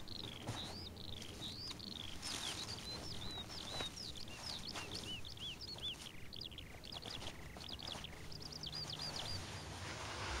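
Small birds chirping in a field: a continuous run of short, high, arched chirps that comes faster in the second half, over a faint outdoor background with a few soft ticks and rustles.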